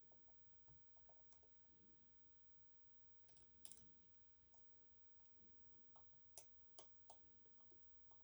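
Faint, scattered small metallic clicks of a hook pick and tensioner working the sliders inside an EVVA 3KS lock cylinder, with a few sharper clicks a little past the middle and several more near the end.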